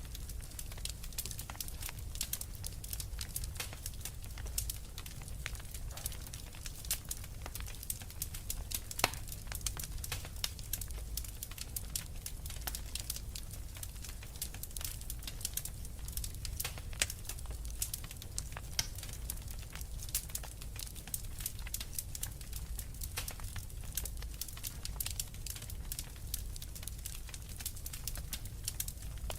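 Wood fire crackling in a fireplace: a steady stream of small sharp pops and snaps over a low rumble, with a couple of louder pops, one about nine seconds in and one about seventeen seconds in.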